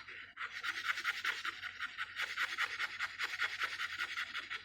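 Rapid, rhythmic rasping strokes of a paintbrush scrubbing acrylic paint onto a small wooden figure, about five strokes a second.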